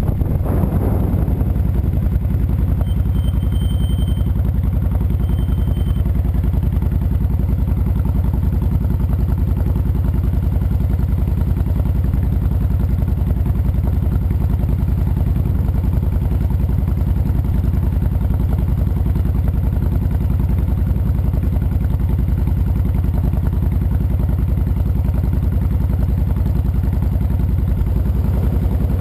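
Honda VTX 1300C's V-twin engine idling steadily; wind rush on the microphone dies away in the first second as the bike comes to a stop.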